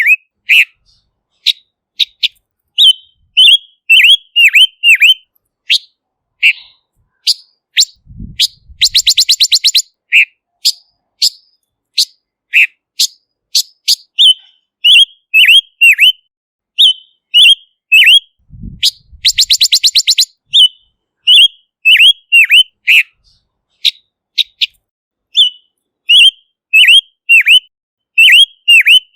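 Silver-eared mesia calling: a busy run of short, clear whistled notes, many dropping in pitch with a hook, broken twice, about ten seconds apart, by a fast harsh rattle.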